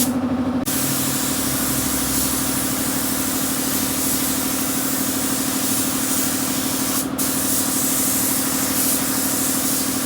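Compressed-air spray gun hissing steadily, cutting out briefly at the very start and again about seven seconds in as the trigger is released, over a steady machine hum.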